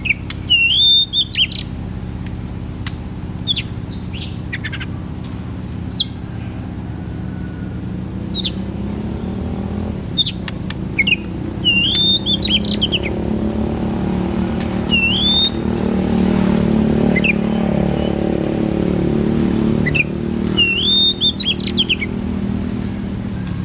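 Oriental magpie-robin singing loud whistled phrases: a rising whistle that levels off, given about four times, with short sharp notes between. A steady low hum runs underneath and swells for a few seconds in the middle.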